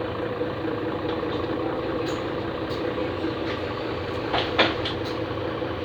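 Vehicle engine idling steadily, with a few short knocks or clicks, the loudest about three-quarters of the way through.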